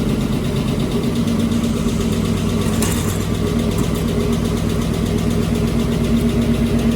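Freshly installed truck engine running at a steady idle, with a brief hiss about three seconds in.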